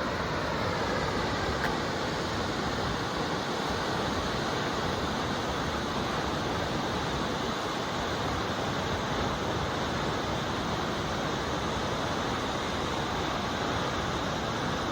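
Shomyo Falls, a 350 m four-step waterfall, rushing: a steady, unbroken wash of falling water.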